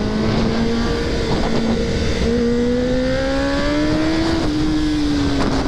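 Kawasaki ZX-10R inline-four sportbike engine running at speed over steady wind rush. Its note drops out briefly about a second in, then rises steadily as the bike accelerates, and eases off slowly after about four and a half seconds.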